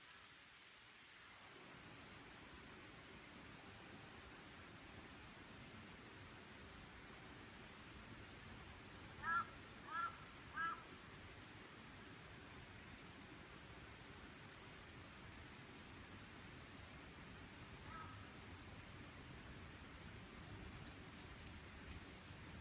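A steady, high-pitched insect chorus, with a bird calling three times in quick succession about nine seconds in and once more, faintly, near eighteen seconds.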